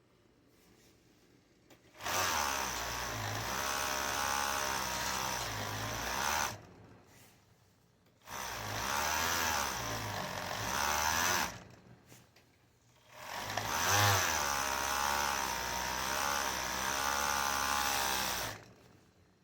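Sewing machine stitching tablecloth fabric in three runs of several seconds each, its motor speed rising and falling within each run, with short pauses between.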